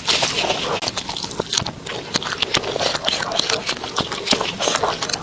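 Close-up chewing and crunching of food, a dense run of crisp clicks and crackles.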